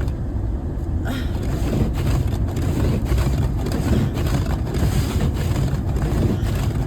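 Jeep Grand Cherokee in four-wheel drive pushing through deep snow: a loud, steady rumble of engine and tyres ploughing snow.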